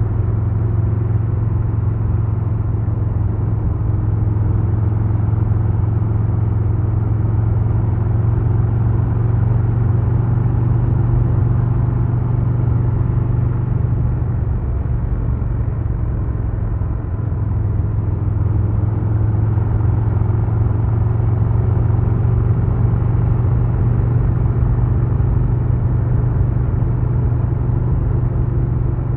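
2022 Harley-Davidson Low Rider S's Milwaukee-Eight 117 V-twin running steadily under way, easing off briefly about halfway through and then pulling again.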